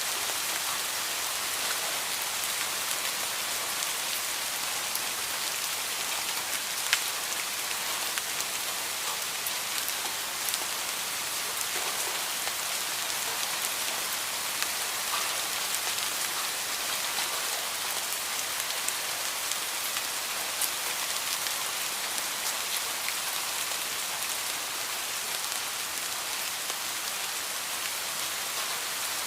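Heavy rain falling steadily: an even, dense hiss, with scattered sharp ticks of drops striking close by.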